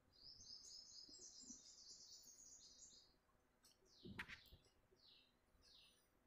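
Faint bird chirping: a quick twittering run of short high notes for about three seconds, then a few short falling chirps. A soft knock about four seconds in.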